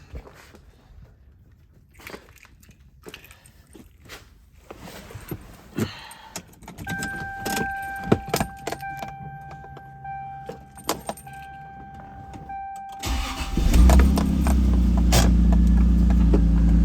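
Keys jangling and handling clicks, then a steady electronic tone for about six seconds. About 13 seconds in, the Toyota Supra's 2JZ-GTE twin-turbo inline-six cranks briefly, catches and settles into a steady cold-start idle.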